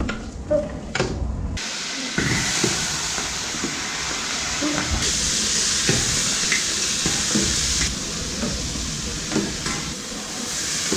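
Halved crabs being stir-fried over a high flame: a steady sizzle that starts suddenly a couple of seconds in, with occasional knocks of a spatula against the pan.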